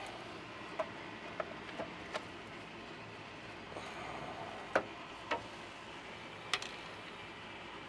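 Hand tools clinking and clicking against metal under a pickup truck, several separate sharp clicks at uneven spacing over a steady faint hiss, as a wrench or socket is worked at a stubborn drive shaft bolt.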